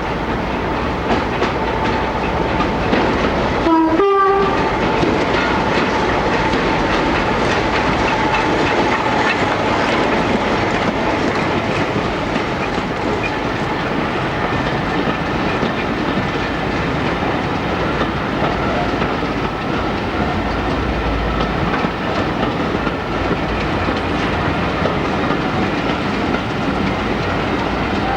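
Train running along the line: a steady loud rumble of engine and wheels on the rails, with a faint steady tone held over it.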